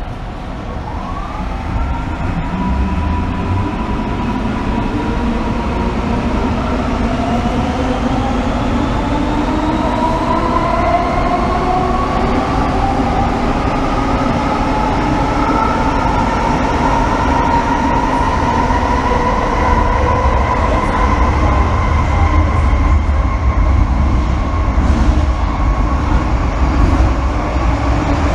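MTR M-Train electric multiple unit pulling away from a station, heard from inside the car. Its traction motors give a whine of several tones that climbs steadily in pitch as the train accelerates, over wheel and track rumble that grows louder.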